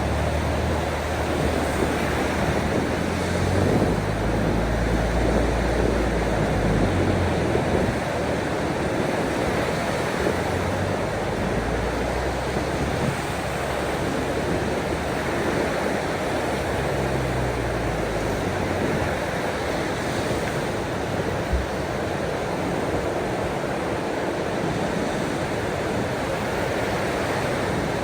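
Ocean waves washing in steadily, with wind and a low rumble through the first several seconds.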